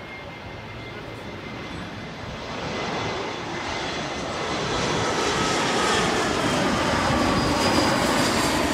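United Express Embraer regional jet passing low overhead on final approach. The rumble and rush of its jet engines build from about two seconds in to a peak in the second half, with engine whines that drift slowly down in pitch as it goes by.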